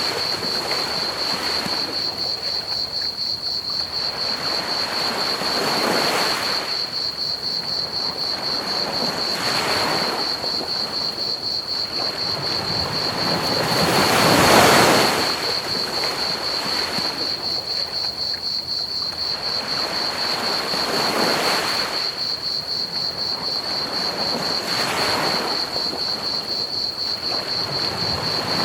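Ocean waves washing onto a beach in slow surges every three to seven seconds, the biggest about halfway through, over constant rapid cricket chirping and an even pink-noise hiss.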